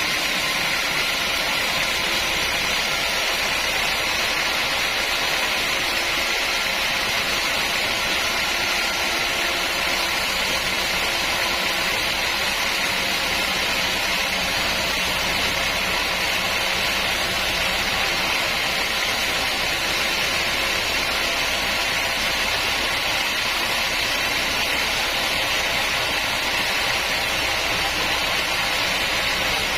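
Sawmill machinery running steadily: an even, unbroken mechanical noise that holds the same level throughout.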